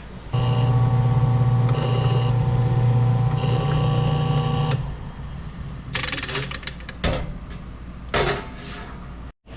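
Electric drill running steadily for about four and a half seconds while engine turning sheet metal, a high whine coming and going three times as the abrasive meets the metal. It is followed by a few short scraping strokes.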